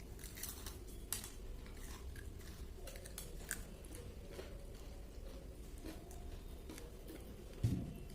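Close-up chewing and crunching of crispy fried chicken, with scattered short crackles and one dull thump near the end.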